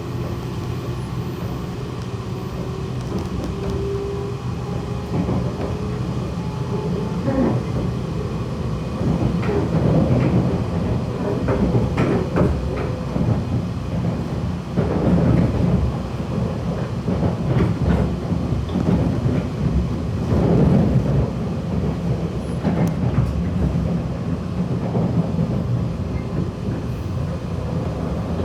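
Running sound inside a JR West 117-series electric train carriage as the train picks up speed: a continuous rumble with a faint rising motor whine, then wheels clattering over rail joints and points from about eight seconds in, growing louder.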